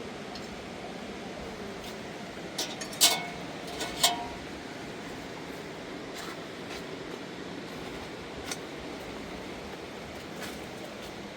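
A steady rushing noise with a few sharp knocks, the two loudest about three and four seconds in.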